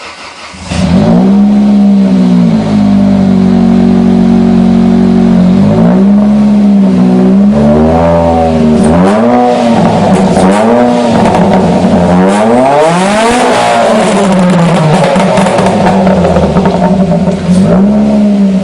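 Ford SVT Focus 2.0-litre four-cylinder engine through a cat-less exhaust (off-road pipe, Magnaflow cat-back, resonator 'lunch box' removed), coming in loud about a second in and holding a steady idle. It is then given a run of short throttle blips, one longer rev near the middle and another blip near the end, each rising and falling back to idle.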